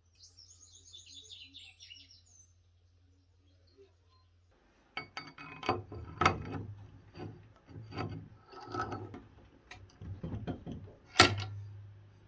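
A bird trills briefly at the start. About five seconds in, a run of irregular scraping strokes and knocks of hand work begins, ending with one sharp knock near the end.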